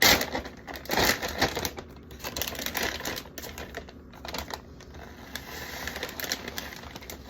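Plastic shredded-cheese bags being handled: crinkling and rustling with irregular clicks and light knocks, the loudest at the start and about a second in.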